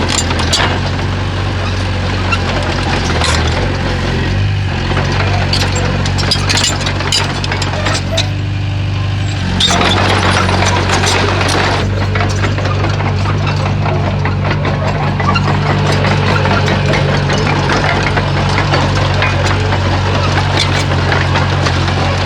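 Komatsu bulldozer's diesel engine running steadily, with scattered clanks and knocks throughout. The engine gets a little louder about ten seconds in.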